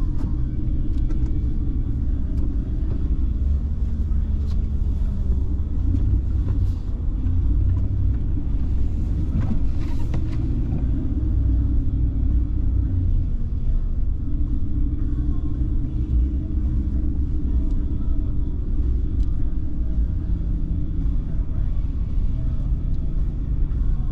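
A car driving, with the steady low rumble of engine and road noise and an engine hum that shifts slightly in pitch.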